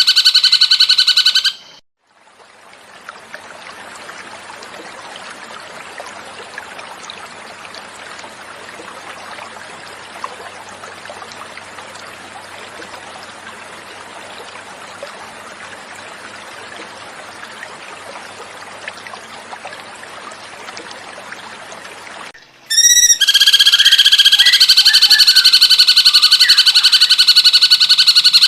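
Recorded cucak cungkok song, loud, dense and rapidly repeated, cuts off about 1.5 s in; after a short gap, about 20 s of softer flowing water, a steady trickle, fills the pause, then the song starts again abruptly about 23 s in.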